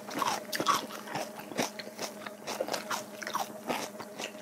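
Close-miked crunching and chewing of crisp raw vegetables wrapped in pickled radish sheets, with bell pepper among them: a quick, irregular run of crisp crunches with wet mouth sounds.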